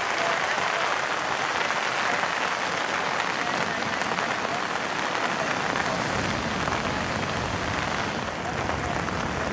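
Steady rain falling, an even hiss with no single drops standing out; a low rumble joins it about six seconds in.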